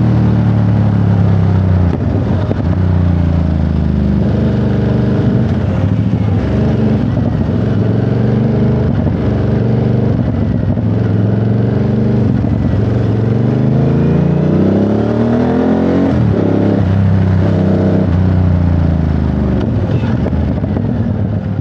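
Ducati Monster 937's L-twin engine running under way, mostly at steady revs. The pitch climbs from about 14 seconds in and falls sharply near 16 seconds, then holds steady again.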